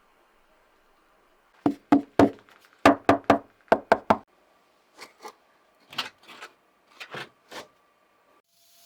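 A series of sharp knocks: about nine loud ones in quick succession, then several fainter ones.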